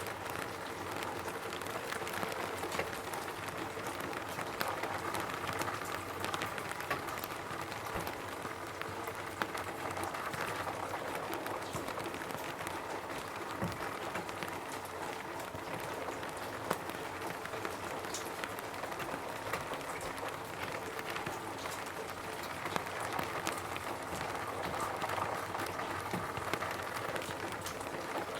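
Steady rain pattering on a roof, a continuous hiss of drops with many small individual taps scattered through it.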